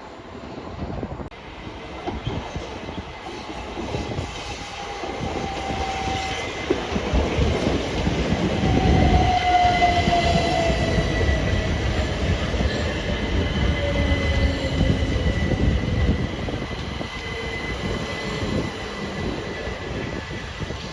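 A train passing through a station: it grows louder to a peak about nine to ten seconds in, then fades gradually, with a high tone that falls slowly in pitch as it goes by.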